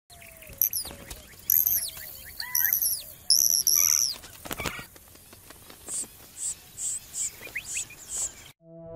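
Several desert birds calling: high, falling whistled calls overlap in the first half, and a sharp single tap comes about halfway through. A run of short high chirps, about two a second, follows and cuts off suddenly near the end.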